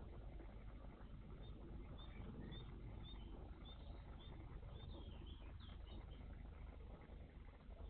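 A small songbird calling faintly in a series of short high notes, about two a second, over steady low background noise.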